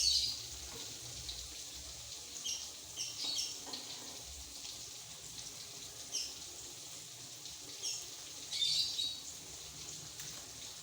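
Short, scattered bird chirps, a few at a time, over a faint steady hiss.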